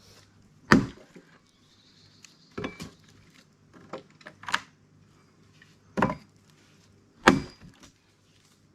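Heavy blows on a log while splitting firewood with an axe and a wooden wedge: five loud wooden strikes about every second and a half, with a few lighter knocks between.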